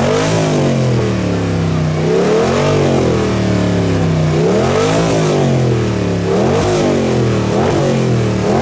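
Car engine revving repeatedly, its pitch climbing and falling back about five times as it drives off.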